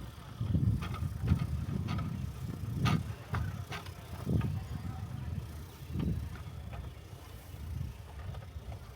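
Rail bike's steel wheels rolling along the track: a steady low rumble with irregular sharp clicks and knocks.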